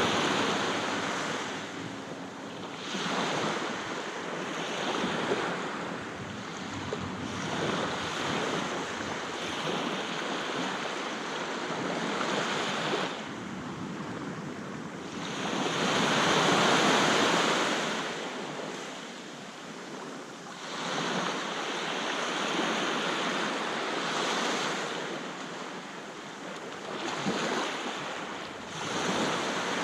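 Sea waves breaking and washing up a beach, the surf swelling and falling every few seconds with one louder wave about halfway through. Some wind buffets the microphone.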